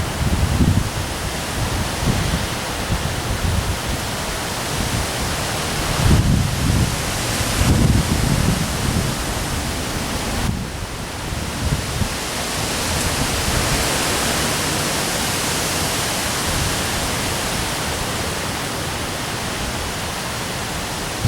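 Heavy rain hissing steadily while strong wind gusts buffet the microphone, the gusts strongest about six to nine seconds in.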